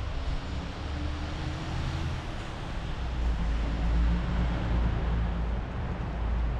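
A motor vehicle going by: engine hum over a rushing haze of tyre noise, swelling to its loudest a few seconds in.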